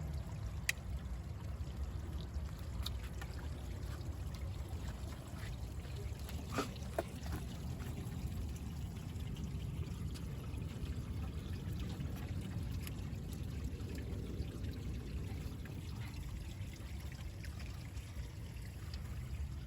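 Small backyard landscaping stream trickling and pouring steadily, with a few faint clicks about a second in and again around six and a half seconds.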